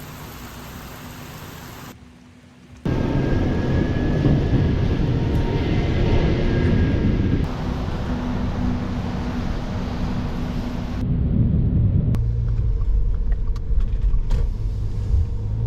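Car driving on the road: steady engine and road noise, heaviest in the low end, changing abruptly at several cuts.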